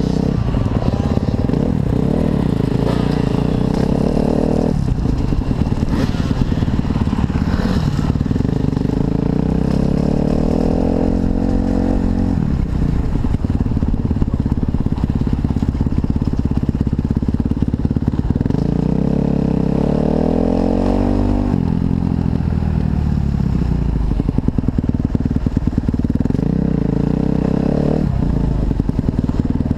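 Kawasaki KX250F four-stroke single-cylinder motocross engine running hard, its pitch climbing as it revs and dropping sharply several times as the throttle is shut or a gear changes.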